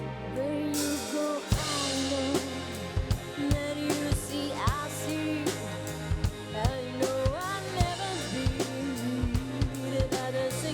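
Live band music: a held keyboard-like chord, then a drum kit comes in about a second in with a steady beat of kick and snare under a gliding melodic line.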